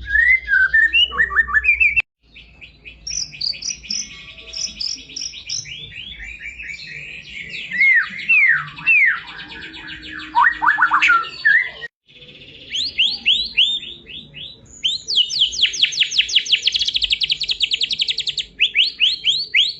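White-rumped shama (murai batu) singing a long, varied song of clear whistles, sharply slurred notes and fast rattling trills. The song breaks off abruptly twice, about two seconds in and near the middle.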